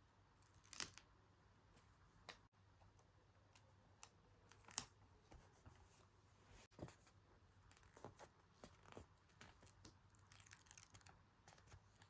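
Quiet desk sounds of paper and stickers being handled: scattered small clicks and taps, with a short crinkly rustle near the end.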